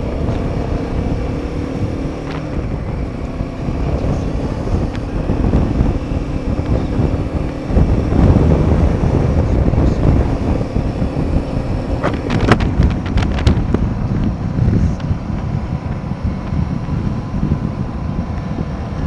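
Royal Enfield Himalayan 450's single-cylinder engine running under way, its pitch rising near the start, buried under heavy wind rush on the microphone. A few sharp clicks about twelve seconds in.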